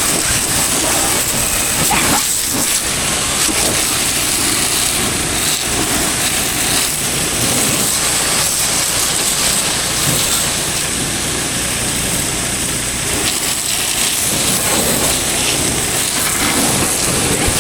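Pressure washer spraying a steady jet of water onto a tractor: a continuous hiss.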